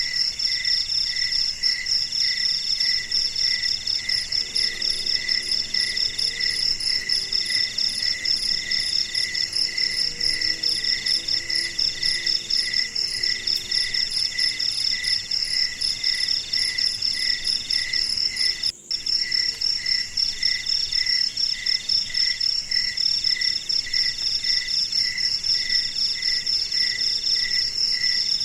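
A night chorus of crickets and other insects chirping in fast, steady pulses at several different pitches. It breaks off for a split second about two-thirds of the way through.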